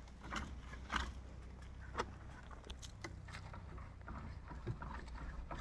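Faint, irregular clicks and taps from hand-washing a motorcycle with soap, over a low steady hum.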